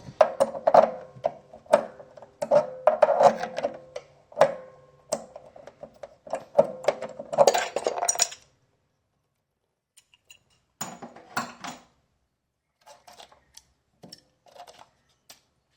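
Metallic clinking and knocking, like tools and plumbing fittings being handled: busy for about the first eight seconds, then a few scattered knocks.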